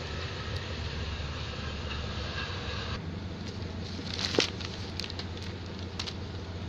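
Steady low rumble of a departing express train pulling away, which cuts off abruptly about three seconds in to a quieter steady hum. A sharp clack comes a little after four seconds in, followed by a few faint ticks.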